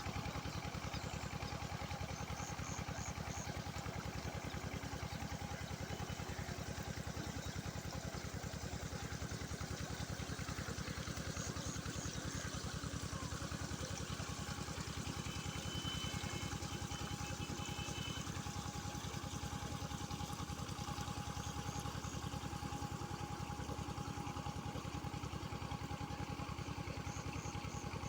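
An engine running steadily at one constant speed, with a rapid, even low beat.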